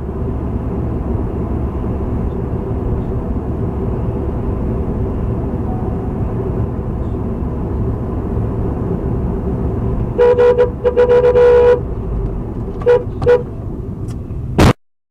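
Steady road and engine noise from a moving car, then a car horn about ten seconds in: one long honk of about a second and a half, followed by two short toots a couple of seconds later. A sharp click near the end, and the sound cuts out.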